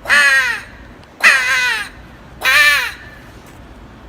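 Three loud crow caws, evenly spaced a little over a second apart, each about half a second long and dropping in pitch.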